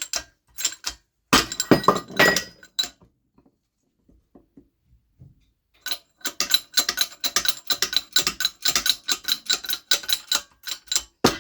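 Metal parts clinking and clicking as a supercharger's front bearings are pressed out of the aluminium bearing plate with a socket in a press: a clatter of sharp clinks, a short lull, then a long run of rapid metallic clicks.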